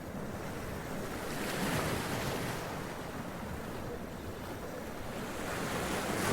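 Sea waves washing up onto rocks and splashing, a steady surf that swells about a second and a half in and again near the end.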